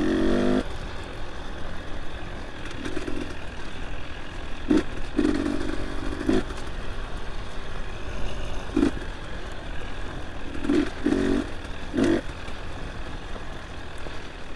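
Dirt bike engine running, revving up in short bursts every second or two, over a steady low rumble, with a few sharp knocks and clatter.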